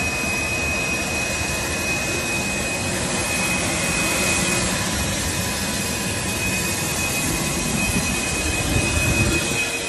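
Private jet's engines running: a steady, even noise with a thin, steady high whine, and the low rumble swelling a little near the end.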